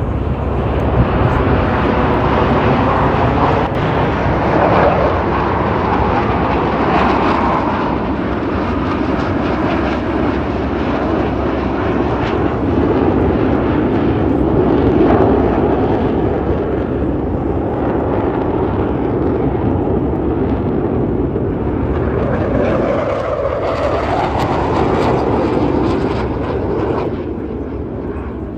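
Loud, steady jet noise from F/A-18 Super Hornet fighter jets flying past, with the tone sweeping up and down as they pass. It swells twice and eases slightly near the end.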